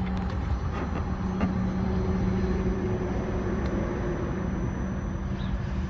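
2024 Suzuki GSX-R1000's inline-four engine idling steadily through an M4 slip-on exhaust.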